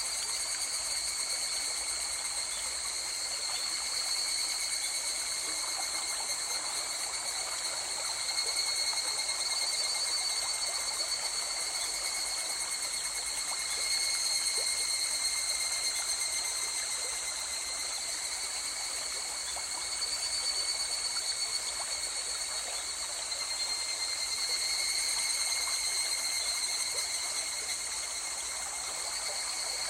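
River water flowing and trickling steadily, under a continuous high-pitched chorus of night insects.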